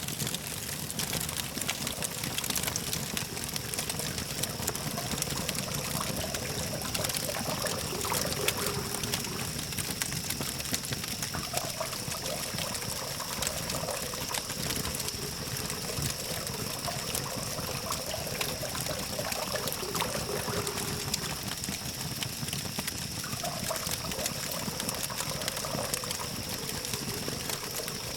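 Wood campfire burning and crackling, with many small sharp pops over a steady hiss, and a distant hum of city traffic beneath.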